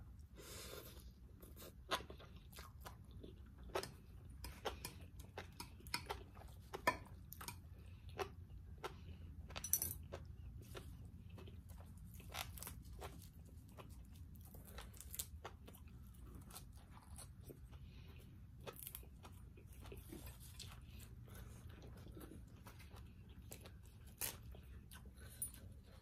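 Close-up mouth sounds of chewing crunchy fresh leafy greens: irregular crunches and small wet clicks, a few louder than the rest, over a faint low hum.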